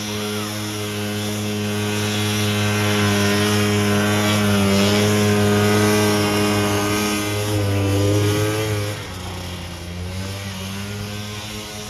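The 250cc two-stroke engine of a snow scooter running under throttle, getting louder over the first few seconds, then dropping off sharply about nine seconds in as it comes off the throttle.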